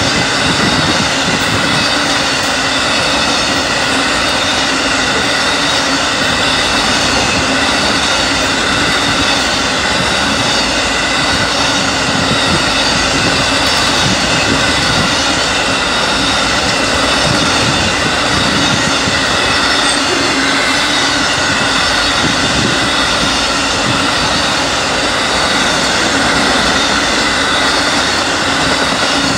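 Amtrak Auto Train's enclosed autorack cars rolling past: a loud, steady rumble of steel wheels on rail, with a few faint steady high tones running over it.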